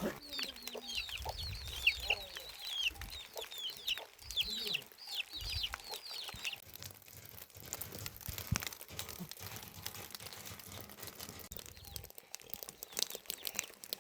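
Chicks peeping: a quick run of short, high, falling peeps for about the first half, then only scattered light knocks and clicks.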